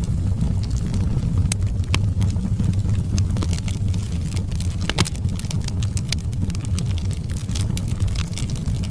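Wood fire burning in a fireplace: a steady low roar of flames with frequent sharp crackles and pops from the burning wood, one of the sharpest about five seconds in.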